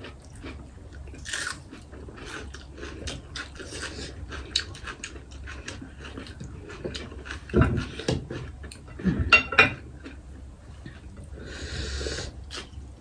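Close-up chewing and crunching of a meal eaten by hand: wet mouth clicks and smacks throughout, with crisp crunchy bites of raw vegetables. A few louder mouth noises come past the middle.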